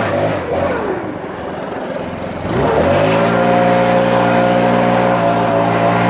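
Small gas engine of commercial lawn equipment running at full throttle. Just after the start its speed drops quickly to a low idle, then about three seconds in it revs back up and holds steady at high speed.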